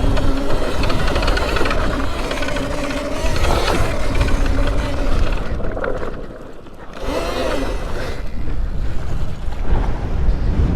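Strong wind rumble on the microphone while an electric dirt bike's motor gives a steady whine for the first few seconds, then eases off about halfway through.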